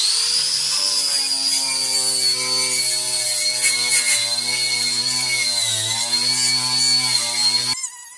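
A handheld power tool spins up and runs steadily at speed with a high whine, its pitch sagging briefly about six seconds in as it bears on the door metal, then cutting off abruptly near the end.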